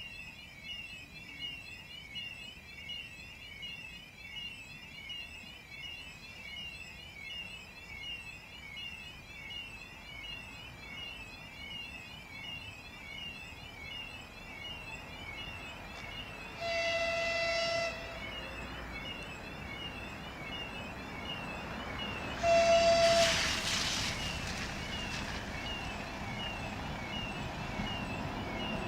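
An electronic warning signal warbles over and over, rising and falling in pitch, as a ChS4t electric locomotive approaches. The locomotive's horn sounds two short blasts about six seconds apart, the second one louder. The train's running noise grows near the end.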